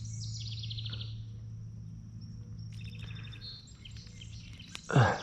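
Songbirds singing outdoors: fast trilled phrases, one about half a second in and another around three seconds, over a steady low hum. Just before the end comes a short, loud sound that falls sharply in pitch.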